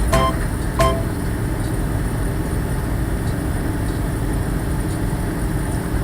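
Steady low rumble of a vehicle on the move, engine and road noise. A few notes of a chime-like melody die away about a second in.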